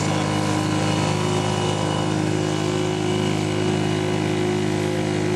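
British Seagull single-cylinder two-stroke outboard motor running steadily at a constant speed.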